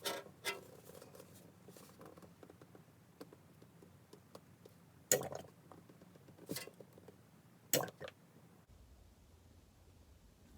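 Faint handling clicks and knocks, a few of them sharper, as a plastic bottle of gear oil with a built-in spout is squeezed into a transfer case's fill hole.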